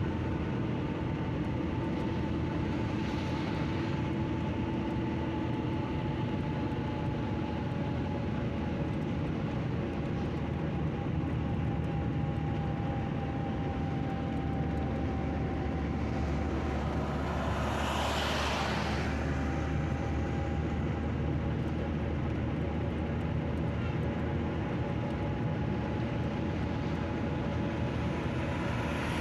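Steady engine hum with low rumble and a few held tones, and a louder rushing swell about eighteen seconds in, as of something passing close.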